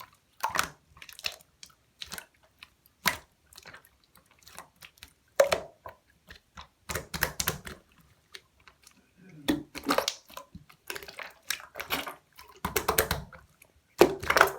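Clear slime being squished and pressed by hand, giving irregular clusters of sticky clicks and wet pops with short pauses between them.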